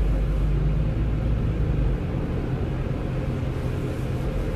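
Diesel pickup truck engine running with a steady low rumble while the truck creeps forward, a little louder in the first couple of seconds.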